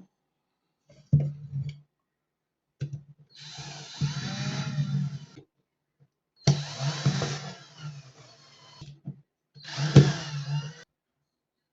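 A small electric motor switched on in four short bursts. Each burst runs for between under a second and about two and a half seconds at a steady pitch, with silence between.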